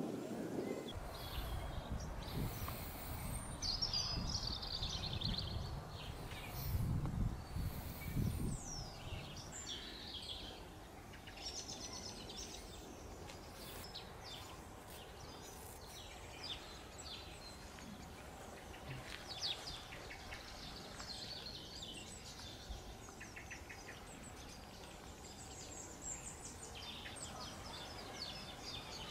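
Wild birds chirping and singing, with many short calls and trills all through. A low rumble is heard under them for about the first nine seconds, then fades out.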